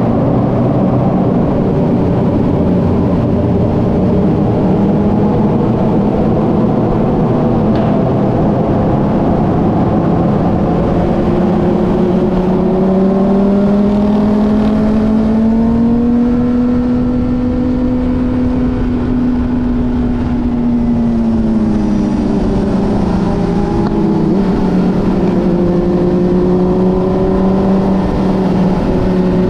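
Motorcycle engine running under way: its pitch climbs slowly about halfway through, holds, then drops back a few seconds later, over a steady rushing noise.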